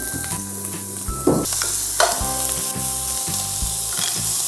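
Fried rice and broccoli sizzling in a frying pan as they are stirred with a wooden spatula. A couple of sharper knocks of the spatula against the pan come about one and two seconds in.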